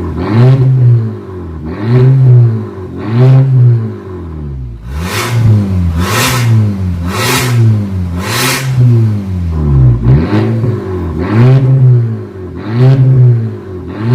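Audi Q5 engine revved in repeated quick blips through a valvetronic stainless cat-back exhaust. Each rev rises and falls, about one every second or so. Four blips near the middle sound harsher and raspier.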